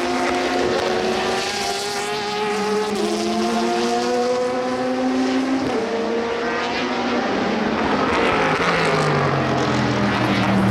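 Race car engines at full throttle, climbing in pitch through the gears with sharp upshifts about three and six seconds in. A deeper-sounding engine takes over near the end.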